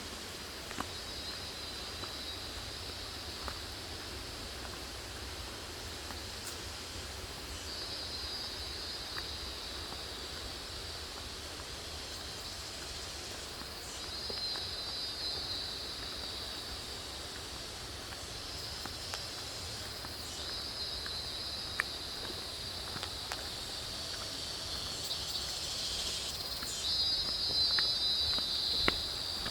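Insects calling in a continuous high-pitched shrill chorus that swells and fades in several waves, louder near the end, over a low steady rumble and a few faint clicks.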